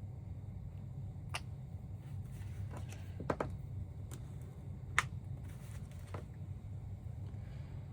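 A few light, sharp clicks and taps of small hard nail-stamping tools and polish bottles being handled on a tabletop, the two loudest about a third and two thirds of the way in, over a steady low hum.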